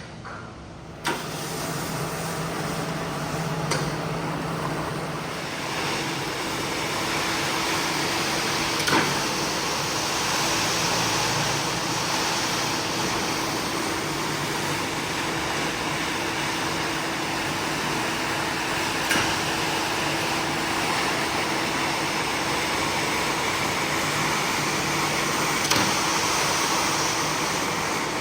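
Carpet-cleaning machine running steadily with a motor hum and a strong hiss, switched on suddenly about a second in, with a few faint clicks.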